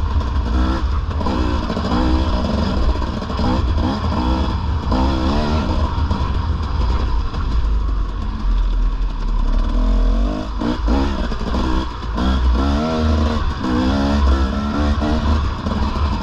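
Dirt bike engine revving up and down over and over, its pitch rising and falling every second or two as the rider works the throttle through a run of whoops, with a heavy wind rumble on the microphone.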